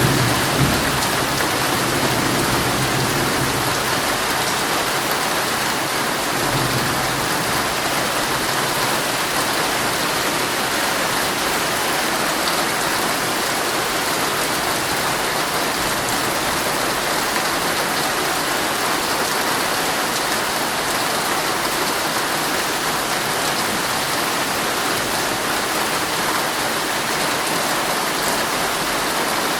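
Heavy rain falling steadily on a tent. A low thunder rumble fades in the first few seconds and returns briefly a few seconds later.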